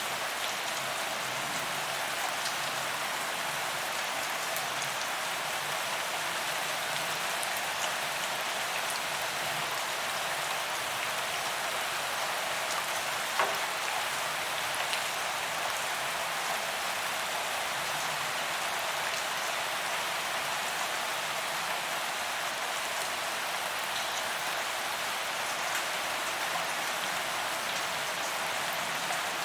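Steady rain falling on a paved promenade, an even hiss of drops hitting the pavement, with scattered individual drop ticks and one sharper drip click about halfway through.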